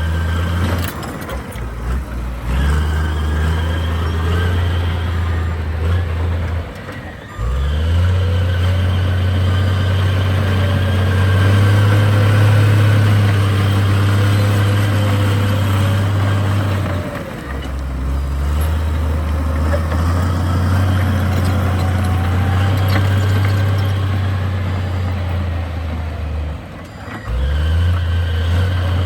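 Heavy diesel engine of an earthmoving machine running steadily under load. It dips briefly three times, about a quarter, three fifths and nine tenths of the way through, and picks straight back up each time.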